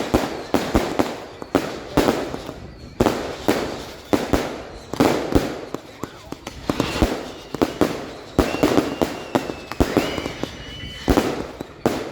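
Fireworks going off in quick succession: sharp bangs about one or two a second, each trailing off in a rumbling echo. A couple of high whistles sound in the second half.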